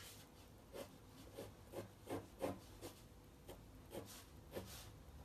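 Pencil sketching on watercolour paper: faint, short scratchy strokes, about two a second.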